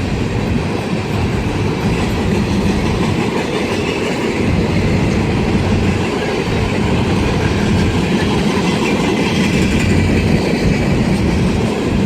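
Empty coal hopper cars of a freight train rolling steadily past, their wheels rumbling and rattling on the rails.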